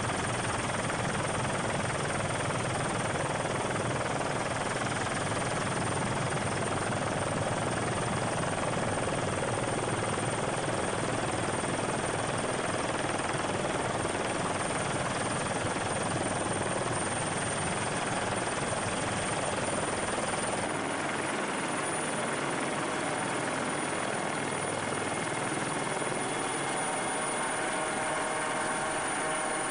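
Helicopter engine and rotor noise, a steady continuous drone. About two-thirds of the way through, the deepest part of the rumble drops away.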